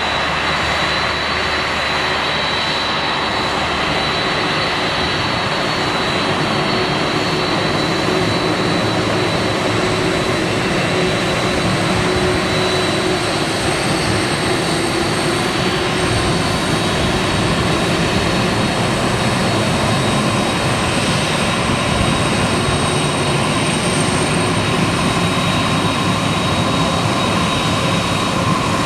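Boeing 767-300ER jet engines running steadily: a broad rush with high, steady whining tones, growing slightly louder toward the end.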